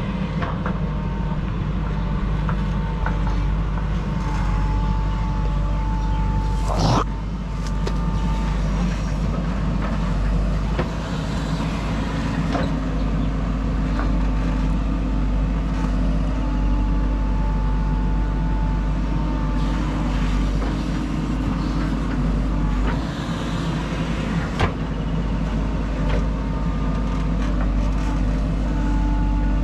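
JCB 3DX backhoe loader's diesel engine running steadily while it works soil, with a high whine that comes and goes. Sharp knocks sound about seven seconds in and again about 25 seconds in.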